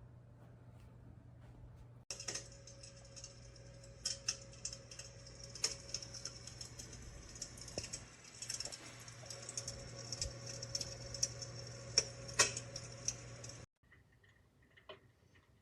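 Electric fireplace insert's built-in fire-crackling sound effect: irregular crackles and snaps like burning wood over a faint steady hum. It starts suddenly about two seconds in and cuts off suddenly near the end.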